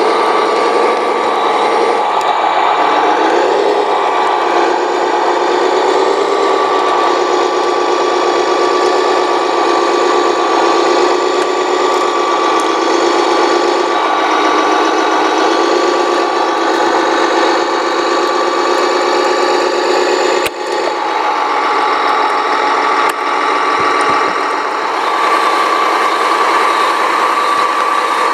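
Small electric motors and gearing of radio-controlled construction models running, a continuous whine whose pitch wavers as the machines work, over a steady high tone. The sound breaks off abruptly about twenty seconds in and starts again.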